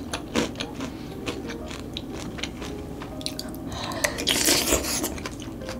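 Close-miked chewing of crunchy fried loach, a run of small crackling crunches. About four seconds in, a louder noisy slurp as a spoonful of loach soup is taken.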